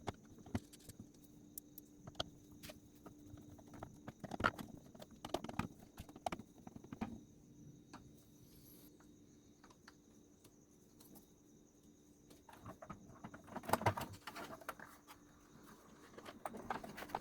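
Irregular light clicks and knocks from parts of the speaker unit being handled and fitted back together during reassembly. The clicks bunch up about four seconds in and again near the end, over a faint steady hum.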